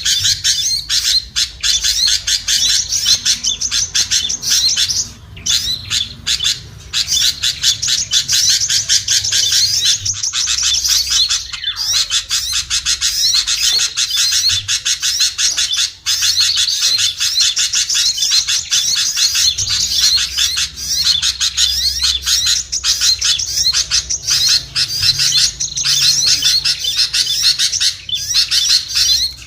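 Dense, continuous twittering of many small songbirds calling at once, rapid chirps and squeaky calls overlapping without a break: a noisy bird-lure recording made to draw small birds such as sunbirds, tailorbirds, prinias and bulbuls down.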